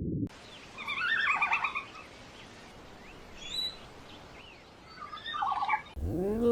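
Bird calls: a burst of rapid, chattering calls about a second in, a single high chirp midway, and another short burst of calls near the end.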